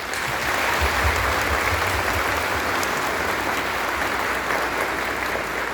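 Congregation applauding in a church: a dense, even round of clapping that starts at once and holds steady.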